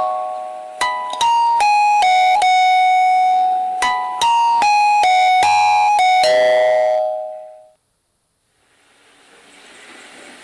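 Background music of bright, bell-like keyboard notes struck one after another, fading out about seven seconds in; after a moment of silence only a faint hiss remains.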